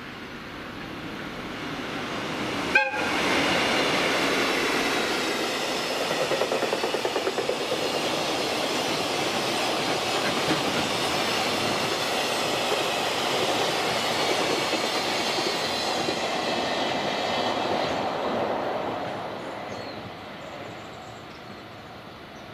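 ED76 electric locomotive hauling a container freight train past at speed: rumble and clatter of wheels over the rail joints, with a brief sharp crack about three seconds in. The noise swells as the train arrives, holds steady as the wagons go by, and fades away after about nineteen seconds.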